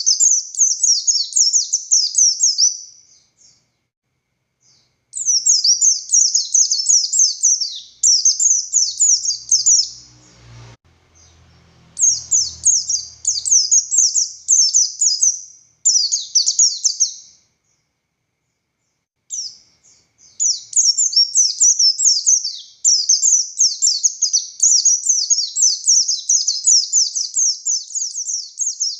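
Pleci buxtoni white-eye singing vigorously: long runs of rapid, high, sharply falling twittering notes, broken by a couple of short pauses.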